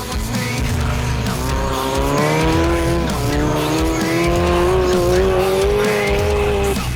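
An off-road vehicle's engine held at high revs, its pitch dipping about three seconds in and then climbing slowly, over background music.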